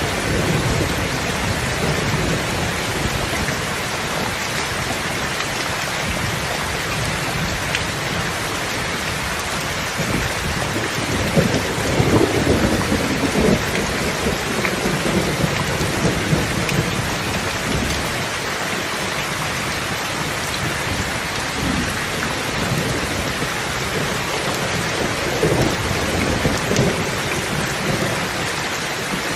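Steady rain falling, with low rolls of thunder swelling partway through and again near the end.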